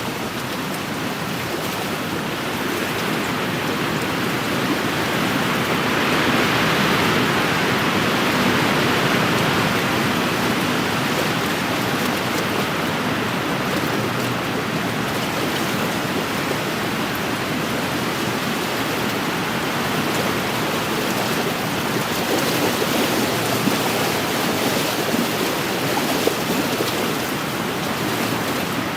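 Wind-driven waves washing steadily against a lakeshore, mixed with wind; the sound swells louder for a few seconds a little way in.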